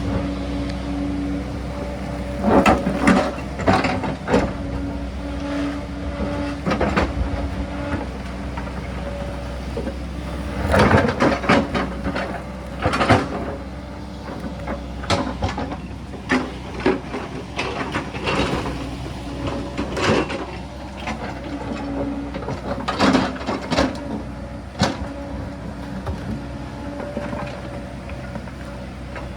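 Sany excavator's diesel engine running steadily under load, with repeated clunks, knocks and scraping as the bucket digs into rock and earth on the hillside.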